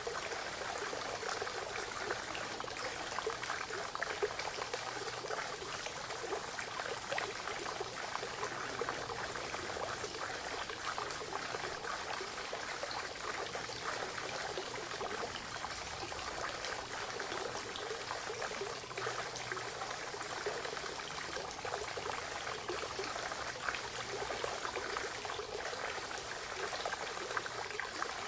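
Spring water trickling and splashing steadily, a constant small-stream babble with many fine droplet splashes.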